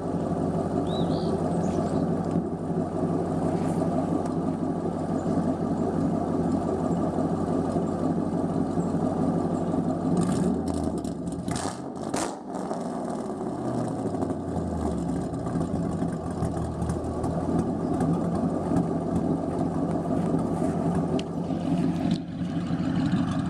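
A 2001 Mustang GT's 4.6-litre V8 idling through an off-road H-pipe and straight pipes, with no catalytic converters and no mufflers. Roughly halfway through, it is revved once with a crackle, and the revs fall back to idle over a couple of seconds.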